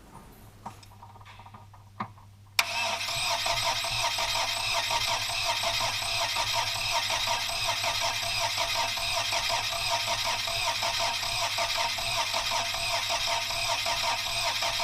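New starter motor cranking the freshly rebuilt Lada VAZ-2103 engine on a first start attempt: a click, then cranking that begins suddenly about two and a half seconds in, runs with an even pulse for about thirteen seconds and cuts off abruptly.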